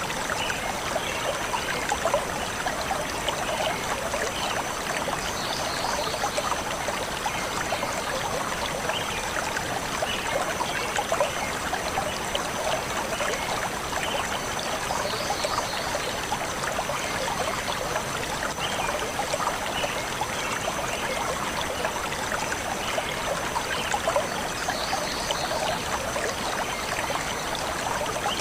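Shallow forest stream flowing steadily over stones, a constant even rushing and babbling, with faint brief bird chirps every ten seconds or so.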